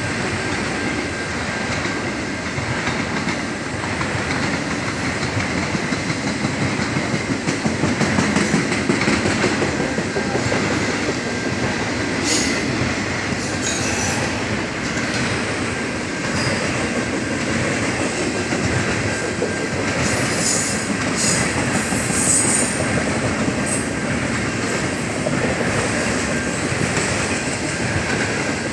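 Intermodal freight train cars rolling steadily past: a continuous rumble of steel wheels on rail with a rhythmic clickety-clack, loudest about eight to nine seconds in. Brief high squeaks from the wheels come about twelve seconds in and again several times around twenty to twenty-three seconds in.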